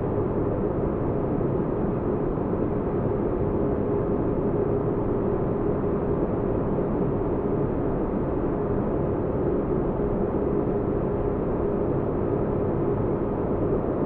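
Steady low spaceship-interior ambience: a deep, even rumble and hiss with a faint constant hum, unchanging throughout.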